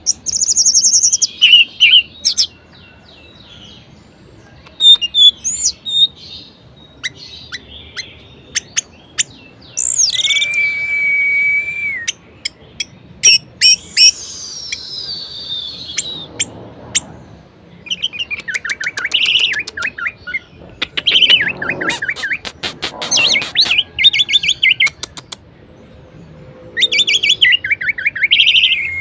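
Orange-headed thrush singing a varied song of separate loud phrases with pauses between them: a held whistle about a third of the way in, a long falling whistle soon after, and fast rattling trills past the middle and again near the end.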